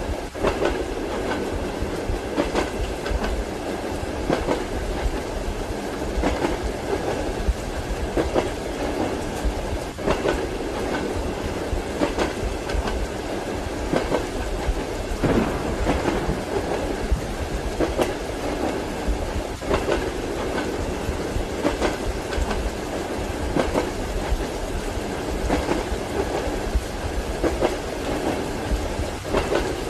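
Train wheels clacking over rail joints every second or two, over the steady rumble of a moving railway carriage, with a hiss of rain.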